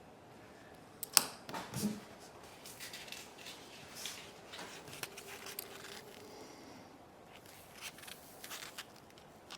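Small hand tools and tiny parts clicking, tapping and scraping during hands-on iPod nano disassembly, with one sharp click about a second in as the loudest sound.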